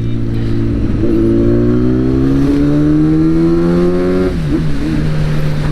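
Motor vehicle engine, most likely the motorcycle being ridden, pulling under acceleration: its note rises steadily for about three seconds, then drops sharply and settles to a steady lower note.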